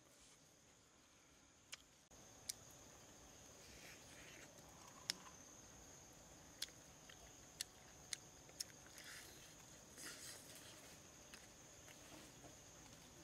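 Faint eating sounds: crisp fried chicken being bitten and chewed, with short crunchy bursts and a scattering of sharp clicks. Under them is a steady high insect drone.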